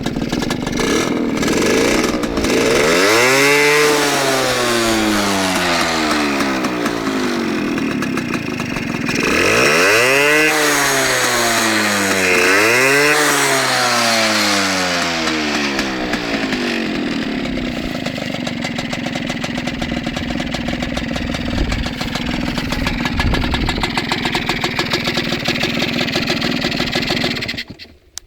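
Suzuki RC80 two-stroke single-cylinder engine in a Suzuki F70 running. It is blipped up and back down once a few seconds in, then twice in quick succession around the middle, then idles steadily until the sound cuts off near the end.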